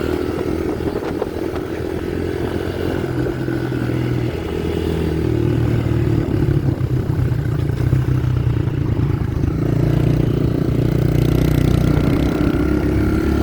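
Dirt bike engine running at riding speed, its pitch stepping up and down as the throttle opens and closes.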